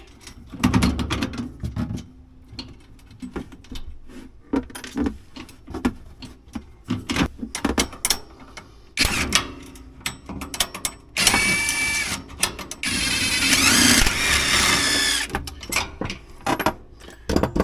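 Hand tools working a small bolt and locking nut on the fifth-wheel landing-gear linkage: scattered metal clinks and knocks. There are two longer stretches of rapid mechanical clicking, about 11 seconds in and again about 13 to 15 seconds in.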